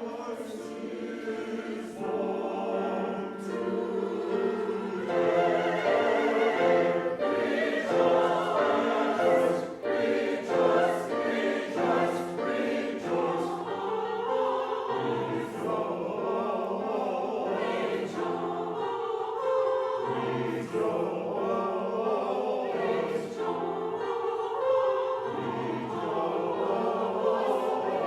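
Church chancel choir singing a Christmas choral piece, with several held notes shifting in harmony. It starts fairly soft and swells louder within the first few seconds.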